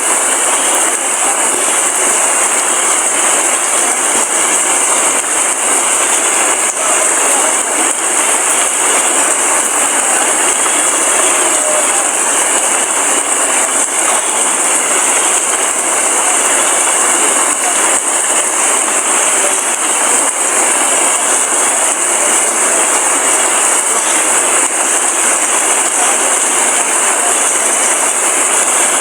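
Heavy rain falling steadily in a dense, even hiss, with no thunder.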